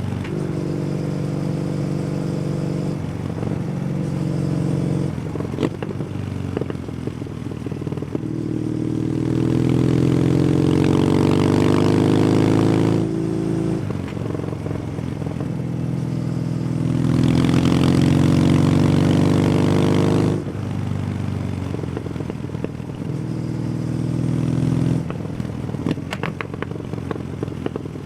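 Kawasaki W800's air-cooled parallel-twin engine through an SC Project aftermarket exhaust, running on the move. It holds a steady note, twice pulls harder with a rising pitch, and each time drops back suddenly.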